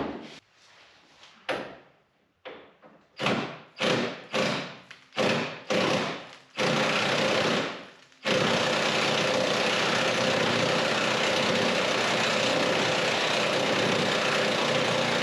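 Several separate metallic knocks and clanks of tools being handled on the truck, then about eight seconds in a power tool starts and runs steadily and loudly without pause.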